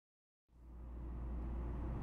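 Onboard sound inside a JR West N700 series 5000 (N700A) Shinkansen car: a steady low hum and rumble that fades in about half a second in after silence.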